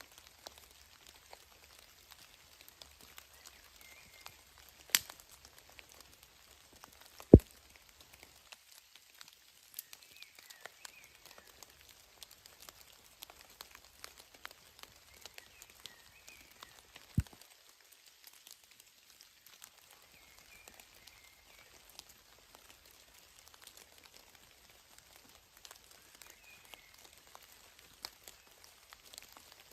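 Scattered drops of water ticking irregularly on a surface, with three louder sharp knocks about five, seven and seventeen seconds in.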